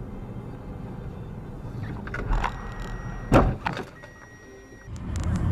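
Car running with a steady low road rumble. A short knock comes a little after two seconds, then a sharp loud bang, the loudest sound, about three and a half seconds in. The rumble drops away for about a second afterwards, then returns louder near the end.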